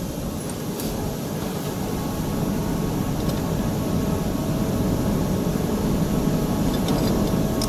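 Steady running noise of industrial machinery, a low rumble and hum that grows slightly louder, with a couple of faint ticks.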